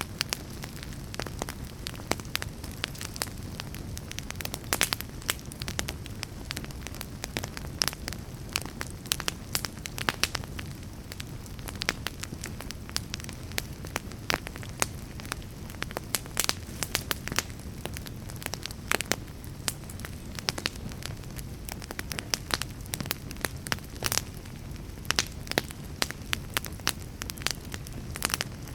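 Fire crackling: many irregular sharp pops and snaps, several a second, over a steady low rush.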